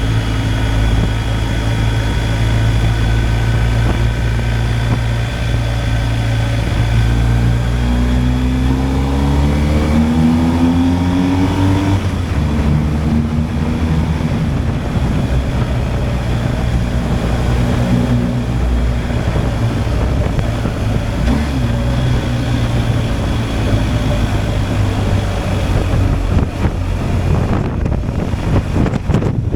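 BMW R 1250 GSA's boxer-twin engine running under way, with wind and road noise. About a third of the way in its note rises for a few seconds as the bike accelerates, then drops with a gear change and settles to a steady pull.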